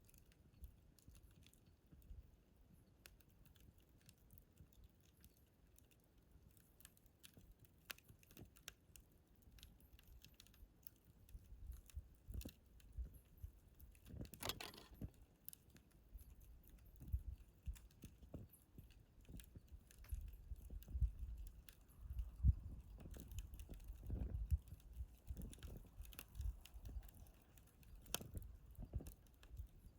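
Wood fire crackling with scattered faint pops and snaps, a denser burst of crackles about halfway through. Low rumbles and thumps come more often in the second half.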